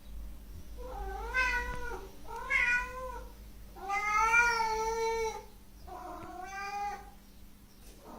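Domestic cat meowing four times in a row, each call drawn out, the third the longest and loudest.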